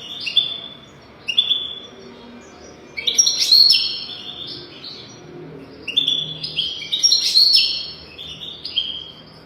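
European goldfinch singing: phrases of quick, high twittering notes broken by short pauses, the loudest and longest phrase about three seconds in.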